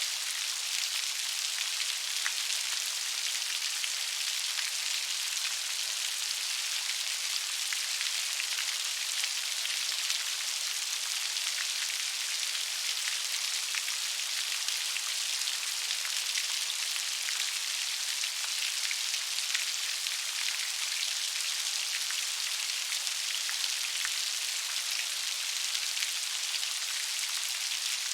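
Steady rain, an even hiss of many small drops pattering with no change in strength.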